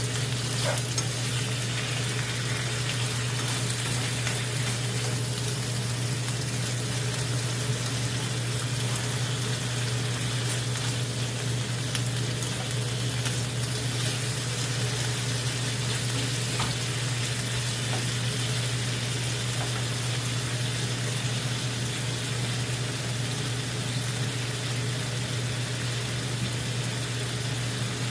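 Sliced duck meat and potato pieces sizzling as they are stir-fried in a frying pan, turned with metal tongs that give a few light clicks against the pan. A steady low hum runs underneath.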